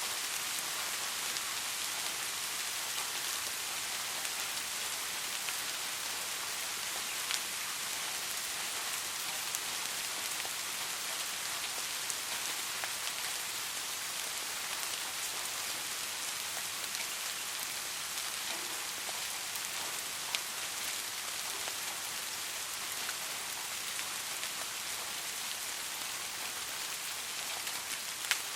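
Soft, steady rain falling, an even hiss with scattered individual drop ticks.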